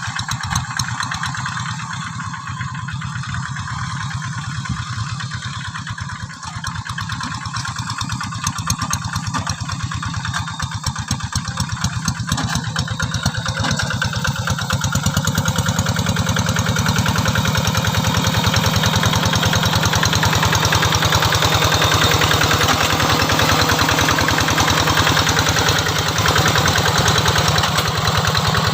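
Engine of a Quick G3000 two-wheel hand tractor running steadily under plowing load, with a rapid pulsing beat. It grows louder about halfway through and stays loud.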